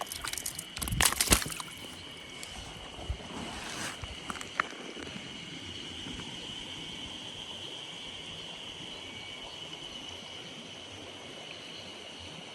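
A brief cluster of splashes and knocks about a second in, then a few single clicks, over a steady high insect drone and the hiss of a flowing mountain stream.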